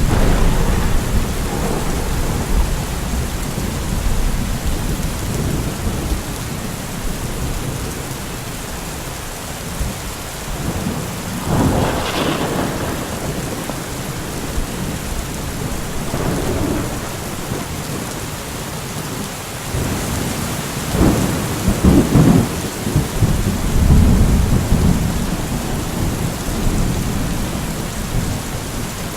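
Steady rain falling, with rolls of thunder rumbling through it. The loudest rumbles come about twelve seconds in and again in a longer stretch past the twenty-second mark.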